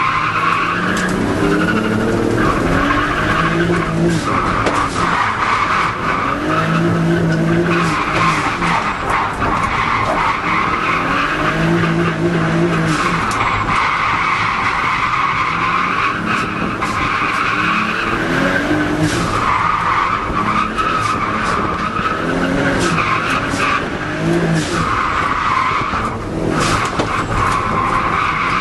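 Nissan Sileighty drift car with a turbocharged RB25DET straight-six, revs rising and falling as it drifts. The tyres squeal in long stretches every few seconds, broken by short gaps where the engine note comes through.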